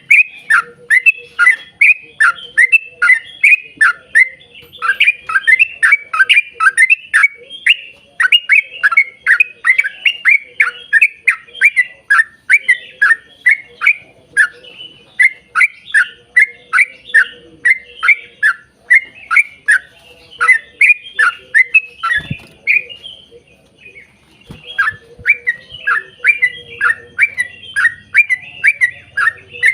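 Yellow-vented bulbul (trucukan) singing a long, fast chattering run of short, loud, downward-slurred notes, about three to four a second, with a brief pause about three-quarters of the way through.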